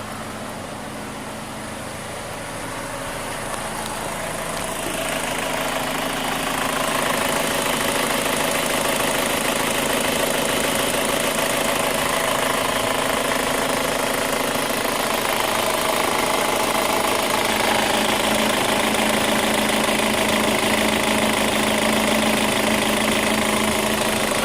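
2005 Chevy Cobalt's 2.2-litre Ecotec four-cylinder engine idling at a steady pitch, growing louder over the first several seconds and then holding steady. It carries a valvetrain noise that the owner likens to a lifter and places at the camshaft.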